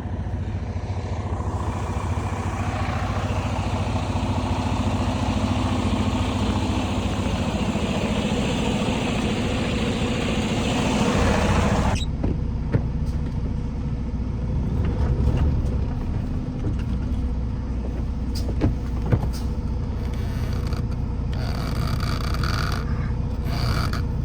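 Vehicle driving on a snowy road: steady low engine and road rumble, with a loud hiss for the first half that cuts off suddenly about halfway through, then the rumble with a few light clicks and knocks.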